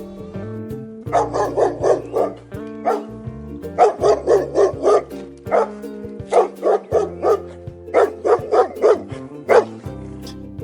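Dog barking in quick runs of four to six barks at a time, over background music.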